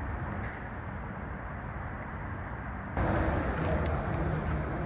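Outdoor city ambience with a steady traffic hum, suddenly louder and brighter about three seconds in.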